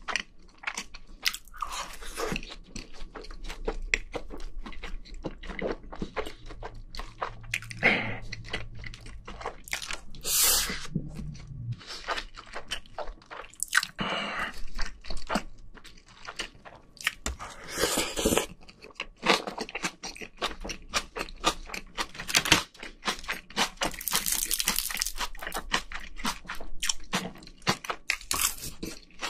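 A person chewing and crunching food close to the microphones: many short, crisp crunches and mouth sounds, broken now and then by longer, louder noisy stretches.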